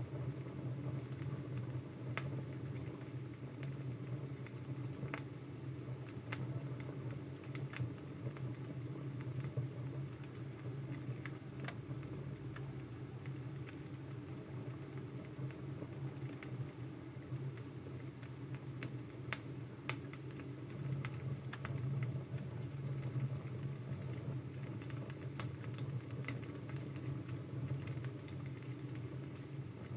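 Wood fire crackling: scattered, irregular sharp pops and snaps over a steady low rumble.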